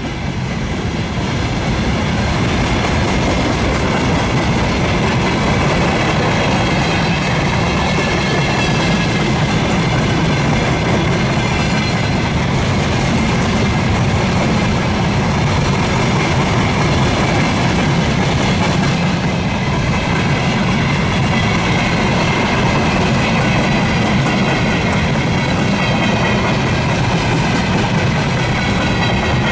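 Long freight train's wagons rolling steadily past at speed, wheels clattering over the rail joints.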